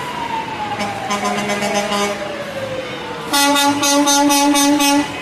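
Parade trucks sounding their air horns: a short horn blast about a second in, a long tone sliding slowly down in pitch, then a loud steady air-horn blast of nearly two seconds near the end.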